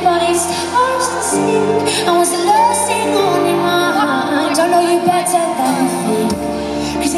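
Live pop ballad performed in an arena: a woman singing a bending melody over sustained keyboard or string chords and a steady bass, heard through a fan's phone-style recording.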